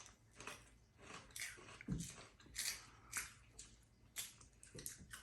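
Someone chewing crunchy roasted onion potato rings, with soft irregular crunches about every half second.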